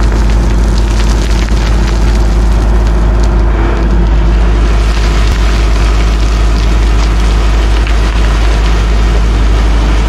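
Heavy diesel machinery running steadily under load, with a constant deep rumble and dense crackling and crunching over it.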